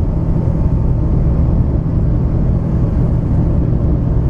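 Cabin noise of an Airbus A350 in its initial climb just after takeoff: the steady low rumble of the Rolls-Royce Trent XWB engines at climb thrust and the rush of air past the fuselage, heard from inside the cabin, with a faint steady whine above it.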